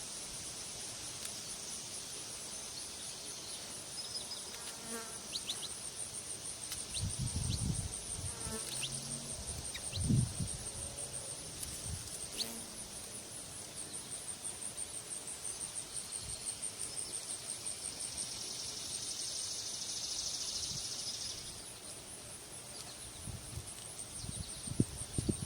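Insects trilling steadily in a high-pitched, evenly pulsing chorus, with a few short faint chirps and a few low thumps.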